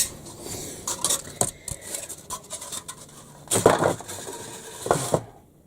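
Irregular clicks, knocks and scrapes as loose pieces are handled and shifted about on a board, with two louder clatters in the second half.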